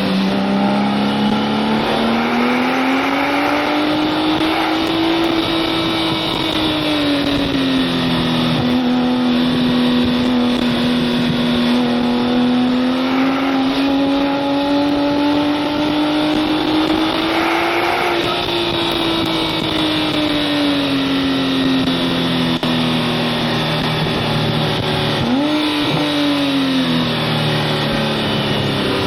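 Porsche 997 Turbo S twin-turbo flat-six running on the road, its engine note climbing and easing off several times, with a quick throttle blip about 25 seconds in and the note falling away at the end, over tyre and wind noise.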